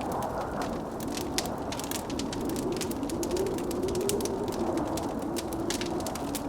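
Wood fire crackling with many quick sharp pops over a steady blizzard wind that howls, its pitch slowly rising and falling.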